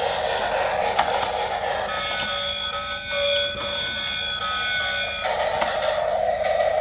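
A small motor whirring steadily, with a steady electronic buzzer-like tone held from about two seconds in until about five seconds in.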